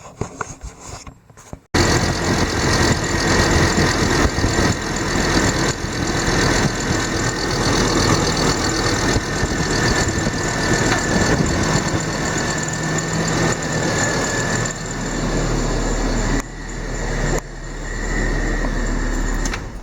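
A 2007 Hummer H3's 3.7-litre inline-five engine starting up and running steadily on freshly fitted spark plugs and ignition coils. The sound starts abruptly about two seconds in, and the level dips briefly twice near the end.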